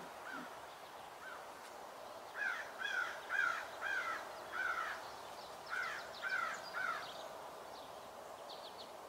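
A bird calling repeatedly in the background: about eight short, arched calls, roughly two a second, in two runs from about two seconds in to about seven seconds, with fainter single calls before them.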